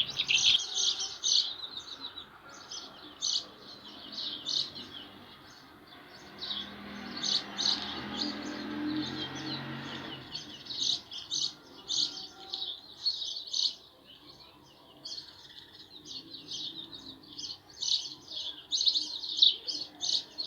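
Many small birds chirping and twittering in quick, overlapping chirps, thinning out for a few seconds in the middle while a soft low rumbling noise rises and fades.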